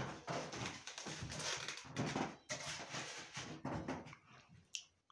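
Close-up chewing and mouth sounds of a man eating fried blue whiting, a run of short wet smacks and chews repeating about once or twice a second.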